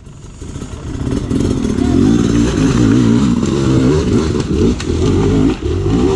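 Dirt bike engine growing louder over the first couple of seconds as it comes close, then revving up and down unevenly as the rider works the throttle over rough ground.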